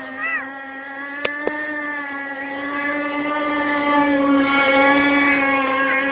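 Homemade radio-controlled boat's motor running at a steady high pitch. It grows louder around four to five seconds in, with two sharp clicks just over a second in.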